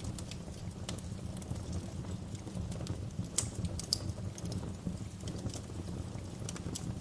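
Wood fire crackling in a fireplace: a steady low rumble of burning with irregular sharp snaps and pops, a couple of louder pops about halfway through.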